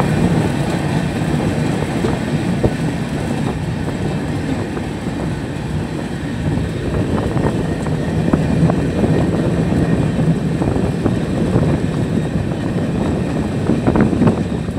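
A moving passenger train's wheels running on the rails: a loud, steady rumble with many irregular clicks over the track.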